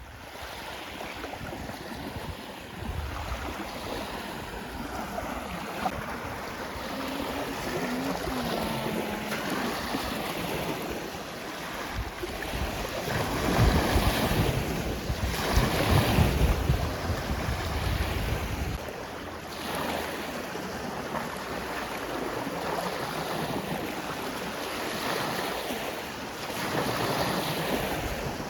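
Small lake waves washing onto the shore in slow surges, with wind gusting on the microphone and rumbling loudest about halfway through.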